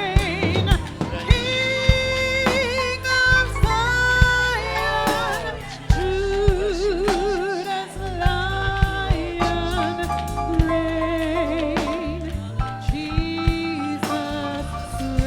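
Gospel music: a solo singer with wide vibrato, sustaining and sliding between notes over a band with bass and drum strokes.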